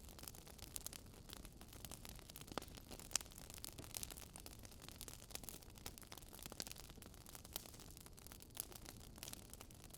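Wood fire crackling: a steady run of small pops and snaps over a soft hiss, with a sharper pop about three seconds in.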